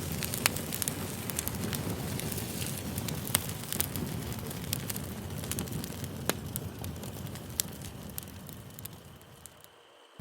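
Campfire crackling, with sharp irregular snaps over a low rush of burning wood; the sound fades out near the end.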